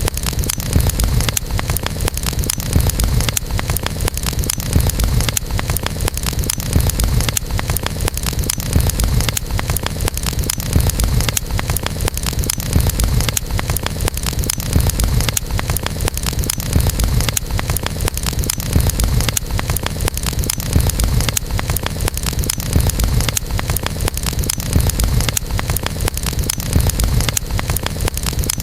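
Campfire burning: a dense run of small wood crackles and pops over a low rumble of flames that swells and fades every second or two.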